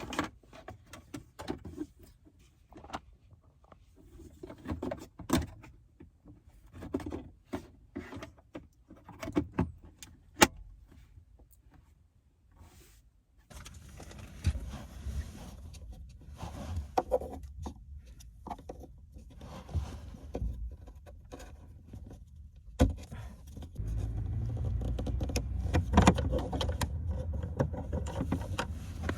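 Clicks, taps and rattles of plastic trim parts and wiring being handled inside a car's cabin. About halfway through, a steady low hum comes on, and it steps up louder a few seconds before the end.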